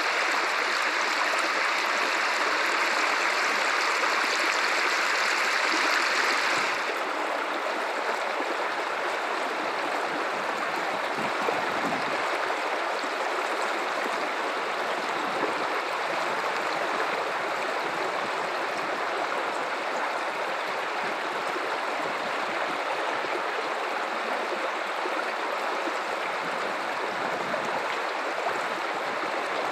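Guadalupe River water running in a steady, even rush. About seven seconds in, the sound changes abruptly to a softer, duller flow.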